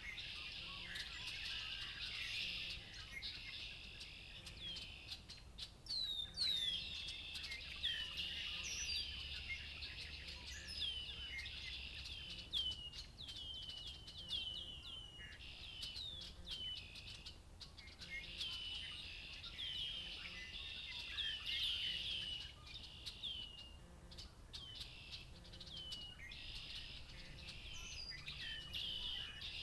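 Chorus of many songbirds singing at once, red-winged blackbirds among them: a dense run of short, quick, downward-hooked chirps and whistles over a steady wash of song.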